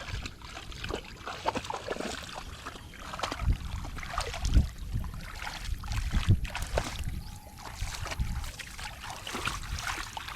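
Shallow water sloshing and splashing irregularly, with dull low knocks now and then.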